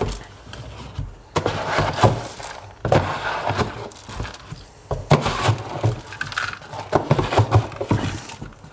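A scoop digging into dry dog-food kibble, the pellets rattling and clattering in irregular bursts as they are scooped up.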